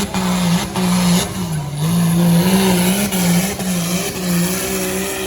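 Pulling truck's engine held at high revs while dragging a weight sled. Its note keeps jumping up and down as the tyres bounce and spin, over a steady hiss of tyre and track noise.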